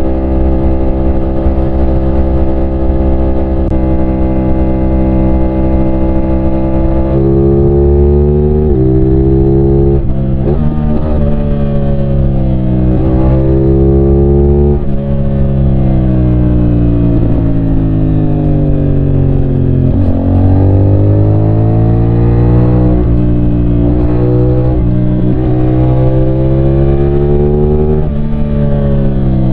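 CFMOTO 450SR's 450cc parallel-twin engine, holding a steady note for about seven seconds, then revving up again and again with sharp drops in pitch between, as the bike accelerates through the gears.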